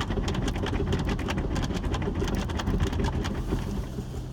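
Rinse water from an automatic car wash's sprayers pelting the car's roof and windows, heard from inside the cabin over the low rumble of the wash machinery. The spray eases off about three and a half seconds in, leaving a steady hum.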